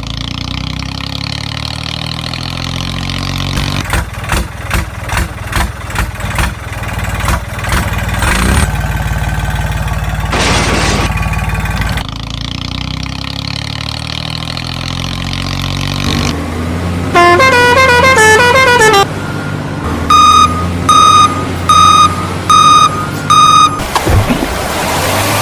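Heavy vehicle engine running steadily, then pulsing in rhythmic surges about twice a second as if straining under load. Near the end come a short falling run of tones and then five short, loud horn honks in a row.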